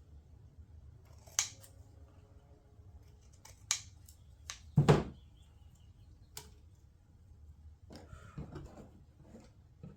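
Objects being picked up and set down on a workbench: a few sharp clicks and knocks, one louder thump about five seconds in, then a soft rustling near the end.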